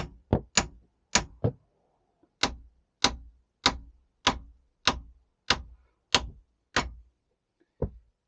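Repeated hammer blows on the 4.3 L MerCruiser's cast-iron exhaust manifold, trying to knock the corroded manifold loose from the engine. About fourteen sharp strikes come roughly every half second to second, with a short pause about two seconds in and a last single blow near the end.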